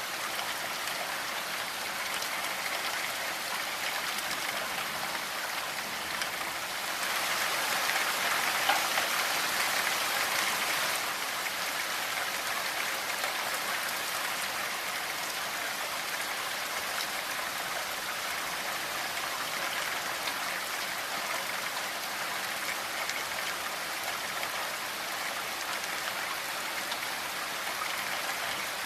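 Steady rainfall, a continuous hiss of drops hitting a surface, which swells a little heavier for a few seconds about seven seconds in before settling back.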